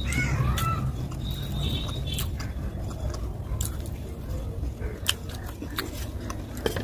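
Close-miked chewing of slate pencil paste, with sharp crisp crunches scattered irregularly through it.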